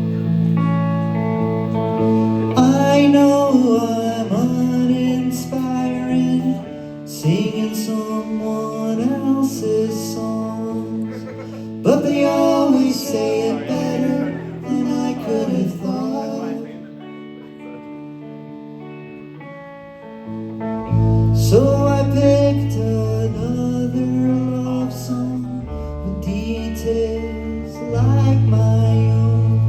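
Live band playing a song: guitars and bass with a voice singing over them. About two-thirds through the band drops to a quieter passage, then comes back in with heavy bass notes.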